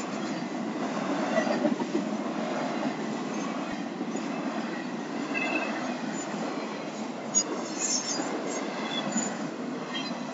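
Florida East Coast Railway train cars rolling past a few feet away: a steady rumble and rattle of steel wheels on the rails, with a few short, high wheel squeals a little past the middle.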